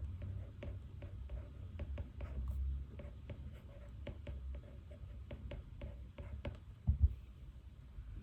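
Pen writing on paper: a run of short, quick strokes and scratches, with one soft low thump about seven seconds in.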